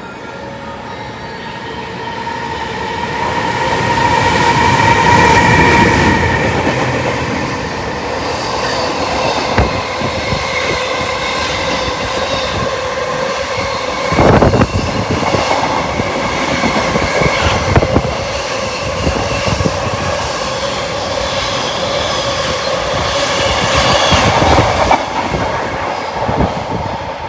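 Freight trains hauled by electric locomotives passing, the wheels clacking over rail joints with sharp knocks, over a steady high whine. The noise builds over the first few seconds and eases off near the end.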